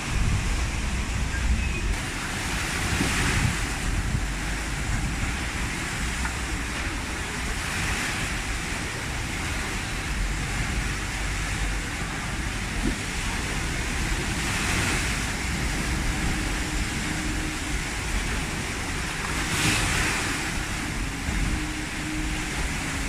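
Tropical-storm wind blowing hard over the microphone with a steady low rumble, while big waves break and wash in, swelling up about four times, roughly every five seconds.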